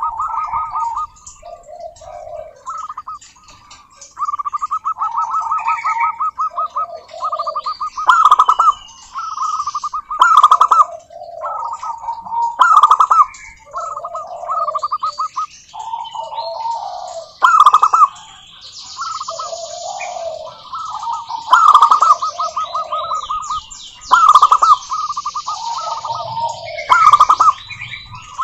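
Zebra doves (perkutut) singing: repeated phrases of rapid, rolling staccato coos, each answered by lower coo notes, coming every couple of seconds. Over the second half, high, fast chirping joins in.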